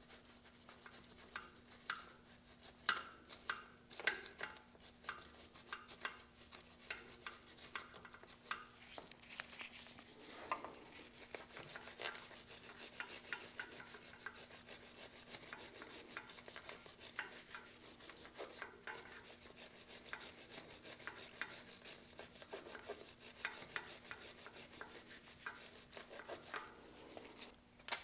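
Small hand wire brush scrubbing grime off the fuel injection pump housing around a banjo bolt on a Yanmar 1500 tractor, in quick irregular scratchy strokes with occasional knocks. A faint steady hum runs underneath.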